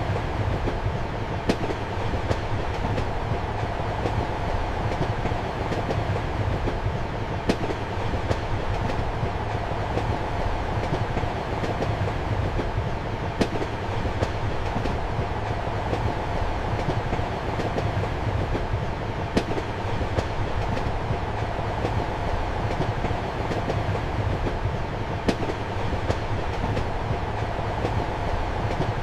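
Train running on rails, heard from inside a passenger compartment: a steady rumble of wheels and carriage, with a sharp wheel click on the rails about every six seconds.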